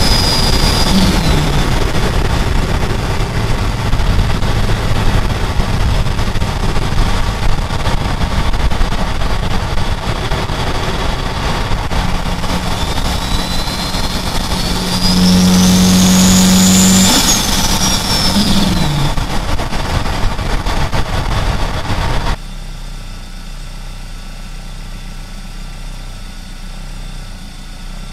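Turbocharged Saab B205 four-cylinder engine pulling hard, with a turbo whistle that climbs to a high pitch about halfway through and falls away as the engine note drops. The engine then goes abruptly quieter about 22 seconds in and keeps running steadily.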